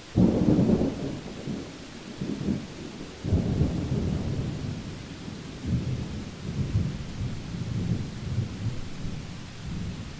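Thunder: a sudden low rumble breaks in just after the start, surges again about three seconds in, and rolls on in waves over a steady hiss of rain.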